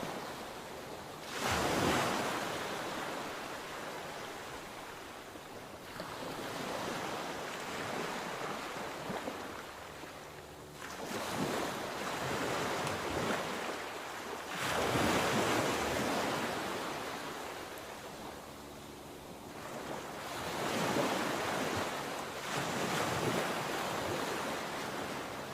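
Sea waves breaking and washing onshore, each surge of surf rising and falling away every few seconds, the strongest crashes about a second and a half in and again about fifteen seconds in. Some wind noise on the microphone.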